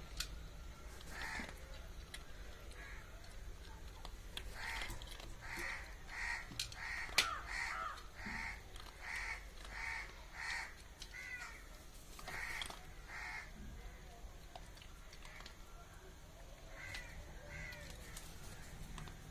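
A bird calling in a run of about a dozen short, harsh calls, one or two a second, starting about four or five seconds in and trailing off after a pause. A single sharp click stands out among them.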